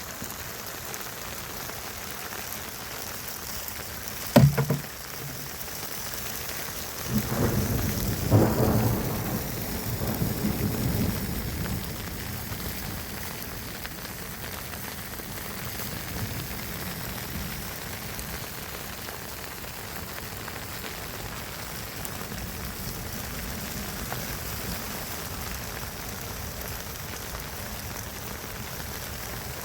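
Steady rushing hiss of water, with one sharp thump about four seconds in and a louder low rumble from about seven to twelve seconds.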